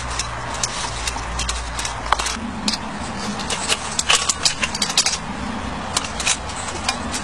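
Irregular light clinks and rattles of small hard objects being handled, with a low steady hum for the first two seconds or so.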